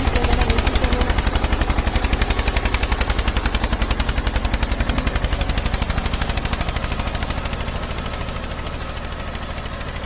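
Tractor engine running with a fast, steady chugging that slowly gets quieter toward the end.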